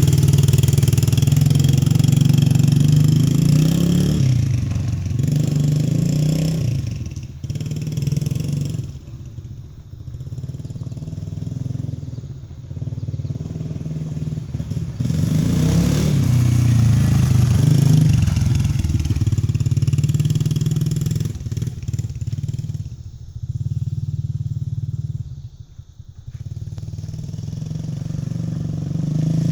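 Dirt bike engine running while the bike is ridden in first gear, the throttle opening and easing off: loud in the first few seconds and again around the middle, dropping back twice in between.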